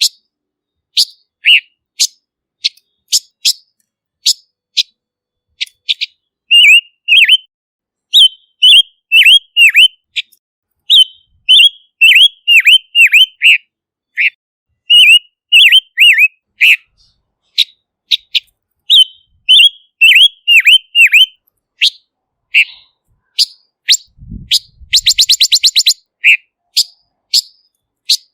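Silver-eared mesia singing: clear, short, high notes in quick clusters, many with a sharp downward dip, separated by brief pauses. About two-thirds of the way through comes a fast rattling trill.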